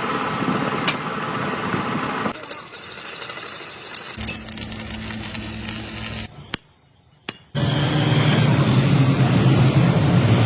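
Factory machinery noise in a series of short edited shots, with abrupt changes in sound between them. There is a brief gap of near silence about six and a half seconds in, then a louder, steady low machine hum.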